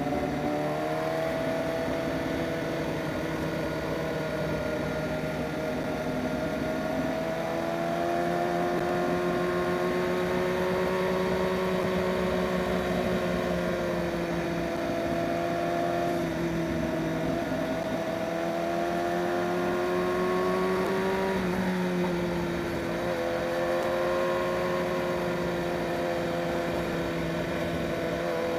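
BMW S1000RR inline-four engine running at a steady cruise, its pitch drifting slowly up and down with the throttle, over a haze of wind and road noise.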